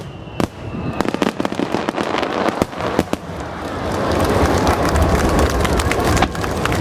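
Aerial fireworks bursting in rapid succession: many sharp cracks and bangs overlapping. From about halfway through they build into a dense crackling barrage with a deep rumble.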